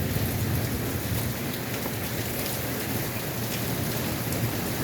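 Heavy rain pouring down steadily in a thunderstorm, with a low rumble underneath.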